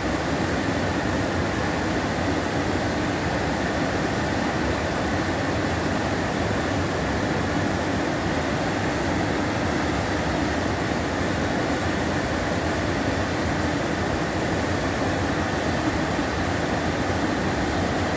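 Flood water pouring over the spillway of the Quixeramobim dam, about 75 cm deep, making a steady rushing noise.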